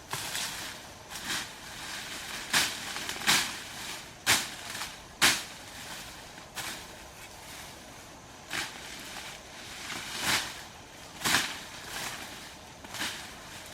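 A series of sharp strikes or scrapes, about eleven in all, coming at uneven gaps of one to two seconds.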